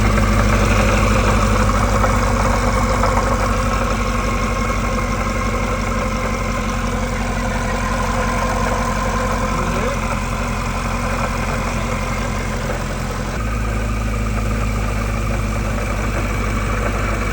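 2018 Camaro 2SS's supercharged V8 with a 2.9L Gen 4 Whipple supercharger idling with a rattling, clunking noise, which the owner believes comes from failing bearings on the supercharger's main shaft. The low engine note changes abruptly about 13 seconds in.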